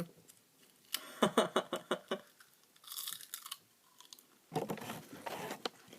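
Chewing and crunching a crispy wasabi-flavoured seaweed snack, in several separate spells.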